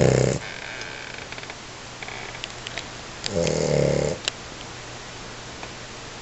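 An American Bully puppy snoring in its sleep: a loud snore as it begins and another about three seconds in, with faint whistling between them.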